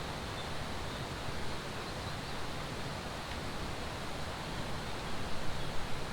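Steady rush of flowing water, growing a little more uneven in loudness near the end.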